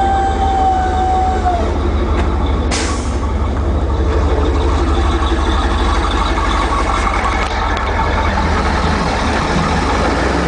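Isuzu NPR box truck's 5.7-liter gas engine running with a steady deep rumble; the engine has a knock and needs repair. A steady high tone drops away about a second and a half in, and a short hiss follows near three seconds.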